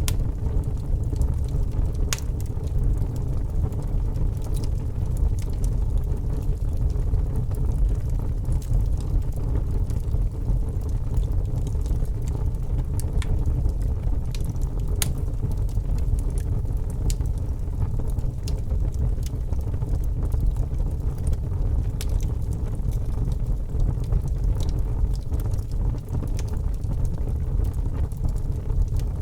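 Wood fire burning in a fireplace: a steady low rumble of the flames with scattered sharp crackles and pops of the burning wood.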